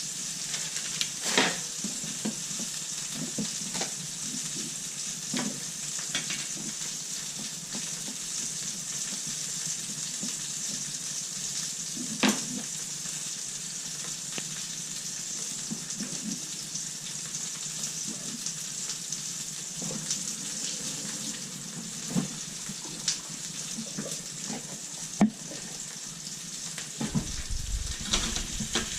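Food sizzling steadily in a frying pan, with a few sharp clicks of a utensil against the pan.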